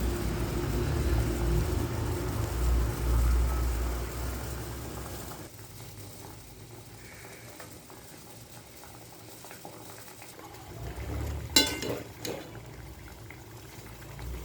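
Pot of water boiling on a stove, loudest for the first five seconds or so and then quieter; two sharp metal clinks of a utensil near the end.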